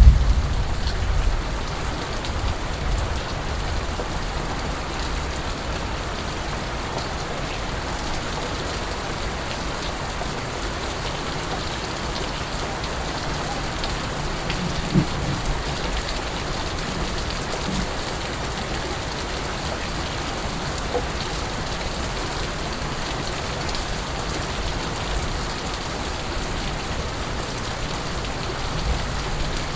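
Steady rain falling, with scattered drips. A low rumble sounds in the first second or so, and a single brief low thump comes about halfway through.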